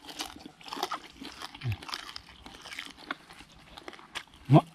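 Crunchy chewing and biting of deep-fried banded bullfrogs, with scattered crackles as the small crisp bones break between the teeth. A short rising vocal 'mm' near the end is the loudest moment.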